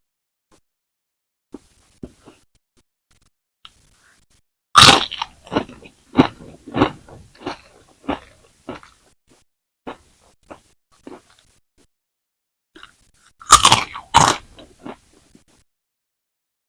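Close-up crunching of crispy french fries being bitten and chewed. There are two loud bites, about five seconds in and again near the end, each followed by a run of chewing crunches that fade out.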